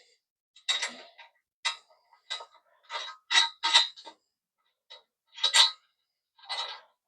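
Metal hand tools clinking and clanking against each other in about a dozen short, irregular clinks, each with a brief ring, as the tools are rummaged through and handled.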